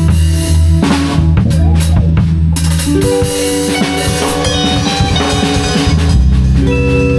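Live improvised band music: a drum kit playing over sustained bass notes and held melodic notes. The drum strikes are densest in the first two or three seconds.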